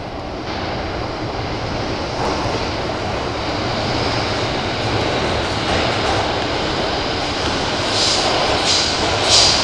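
E217-series electric train approaching through a tunnel into the platform, its rumble building steadily louder, with three short high screeches near the end.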